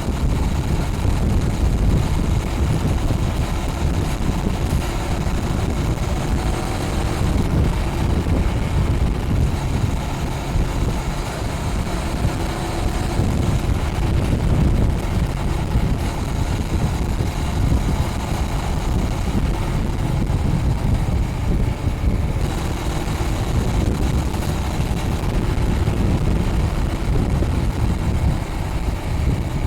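Honda Rebel 500's parallel-twin engine running through its stock exhaust while riding at a steady pace, mixed with heavy wind noise on the microphone.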